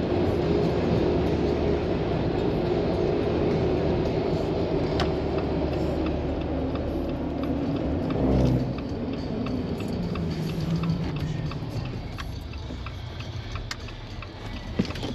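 Jeep JL Rubicon on 37-inch Nitto Trail Grappler tires driving, with a steady mix of engine and tire noise. About eight seconds in the engine note falls and the sound gets quieter as the Jeep slows.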